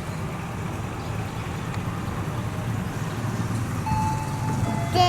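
Steady low rumble of a passenger train, heard from inside the carriage. Near the end, a single held high tone comes in over it.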